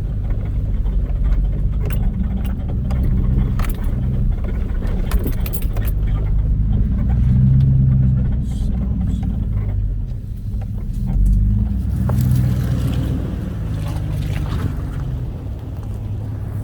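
A vehicle's engine running at low speed, rising and easing as it crawls over a rough, rocky trail, with scattered knocks and rattles from the bumps.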